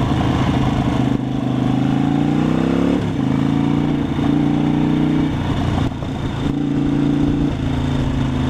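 Motorcycle engine accelerating, its pitch rising for about three seconds, dropping at an upshift, then running steady.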